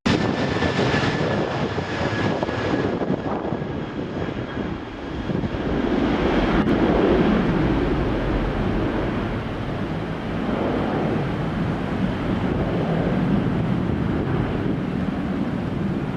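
Jet airliner's engines during takeoff: starting suddenly with a high whine that fades over the first few seconds, then a loud, broad rumble that swells about six seconds in and holds steady.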